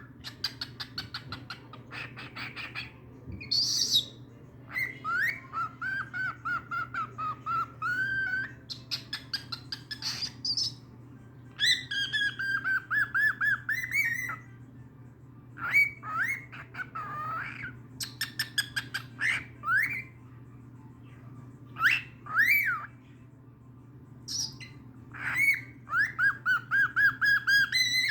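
Young male cockatiel singing: a string of whistled phrases with fast chirping trills, a wavering warble and sharp rising whistle sweeps, pausing briefly between phrases. A steady low hum runs underneath.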